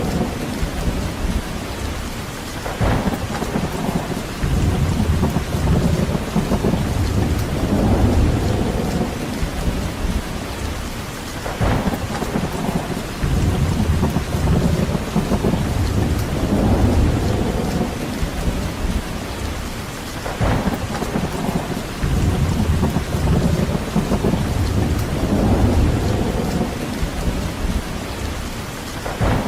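Steady heavy rain, with low rumbling swells rising and falling every few seconds and a short sharp crack about every nine seconds.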